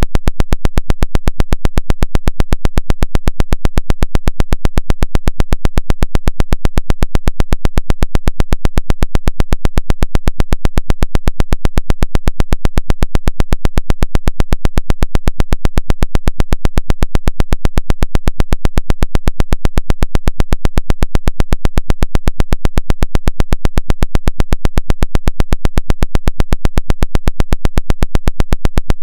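Pulsed radio interference of the 'Woodpecker' kind: a loud, perfectly regular train of sharp clicking pulses, several a second, that goes on without change.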